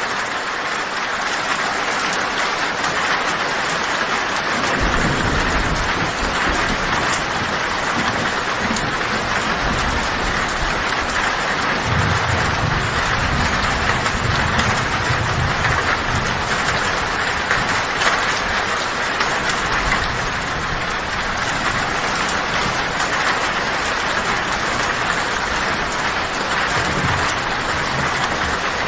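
Heavy rain falling steadily on a tin roof. Low thunder rumbles come and go beneath it: first about five seconds in, strongest through the middle, and briefly again near the end.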